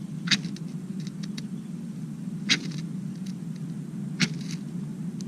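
Fire-starter (ferro) rod struck three times, about two seconds apart, each a short sharp scrape, with a few lighter scratches between: sparks being thrown onto tinder to light it.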